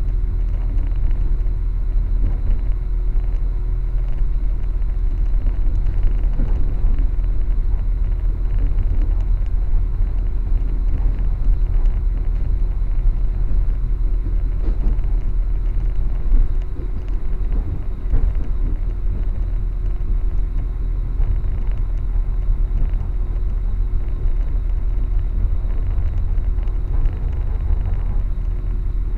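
Steady low rumble of a moving passenger train heard from inside the carriage, with a faint steady hum over it.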